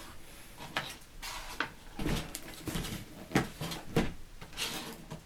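Irregular knocks, clicks and light clatter of hard objects being handled, about a dozen strokes spread through a few seconds with a few louder knocks in the middle.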